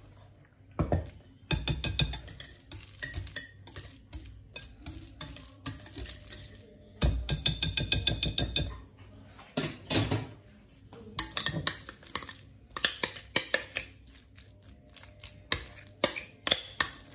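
A metal utensil clinking and scraping against a bowl in quick runs of strokes, with short pauses between, as in mixing by hand.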